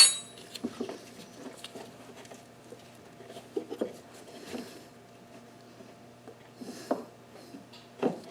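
A sharp metallic clink with brief ringing right at the start, then scattered light clicks and rustles of small metal parts and a hose being handled in an engine bay, with a couple of louder taps near the end.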